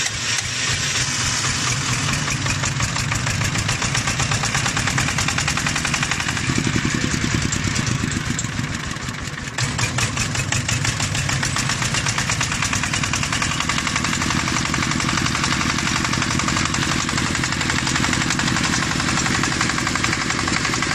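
Electric-start water-cooled diesel engine catching right after key cranking and running with a steady rapid knock. About nine to ten seconds in, the sound sags briefly, then comes back abruptly.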